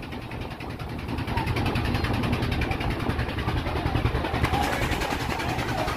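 An engine running steadily with a low, even throb.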